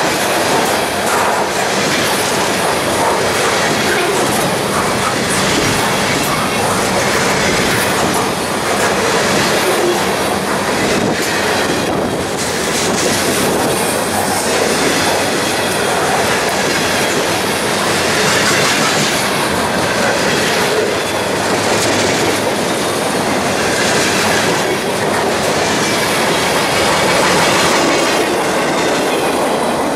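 Freight cars rolling past close by: a steady rumble of steel wheels on rail, with the repeated clickety-clack of wheels crossing rail joints.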